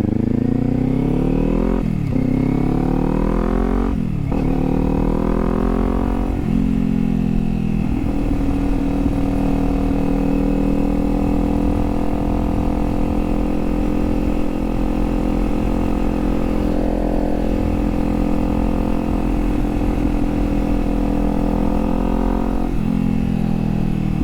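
Kawasaki Z400's parallel-twin engine accelerating through three quick upshifts, its pitch climbing and falling back at each change, then holding a steady cruise. Its pitch drops once more near the end.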